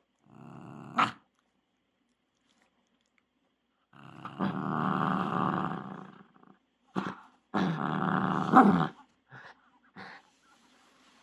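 Shiba Inu growling possessively over a ball toy, in several bouts with pauses between; the longest lasts about two and a half seconds, and the loudest peak comes about eight and a half seconds in.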